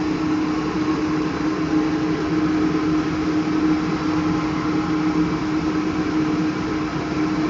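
A steady mechanical hum with one constant low tone and an even hiss over it.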